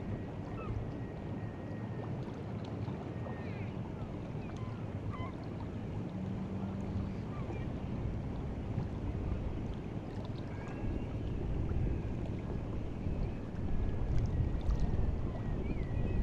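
Seawater lapping and washing at the shore on a rising tide, a steady low wash that swells a little in the second half, with a few faint high chirps over it.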